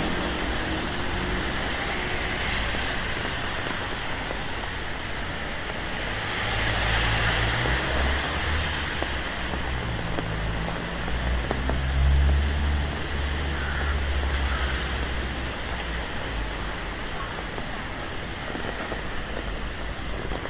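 Steady rain hissing on a city street, with road traffic passing. A low engine rumble swells twice, about seven and twelve seconds in, the second louder.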